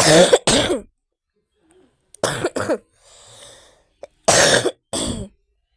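A woman coughing in three bouts of two sharp coughs each, about two seconds apart.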